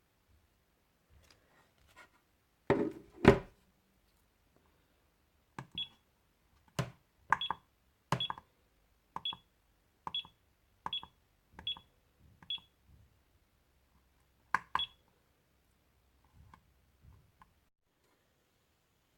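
Two loud knocks from handling about three seconds in, then a run of short clicks, each with a brief high beep, about one a second: button presses on a SkyRC hobby LiPo charger.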